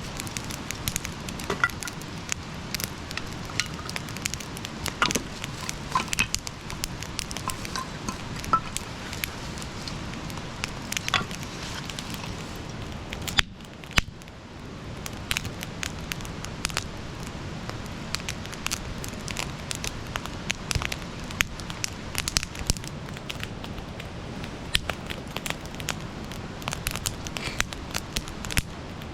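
Campfire crackling, with frequent sharp pops over a steady hiss. The sound briefly drops away about halfway through.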